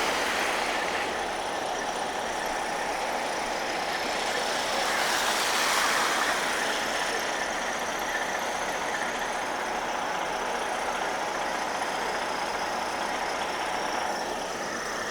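Downtown street traffic on a snowy road: cars and engines running past with a steady hiss. One vehicle passes louder about five to six seconds in.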